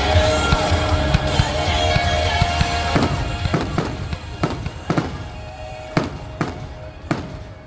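Fireworks going off: a run of about eight sharp bangs from aerial shell bursts over the last five seconds. Music plays underneath and fades away.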